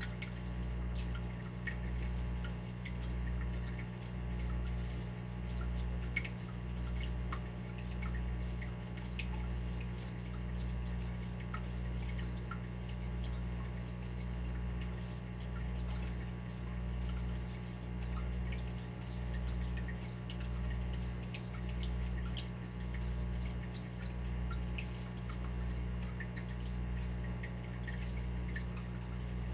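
Water dripping: scattered small drips over a steady low hum that swells and fades about once a second.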